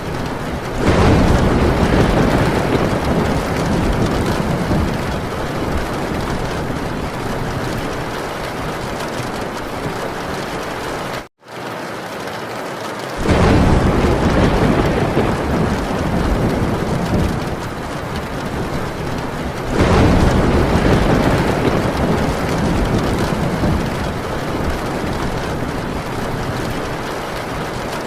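Heavy rain beating steadily on a metal tin roof, with thunder rolling in three times, about a second, thirteen seconds and twenty seconds in, each rumble swelling and fading away over several seconds. The sound cuts out for a split second about eleven seconds in.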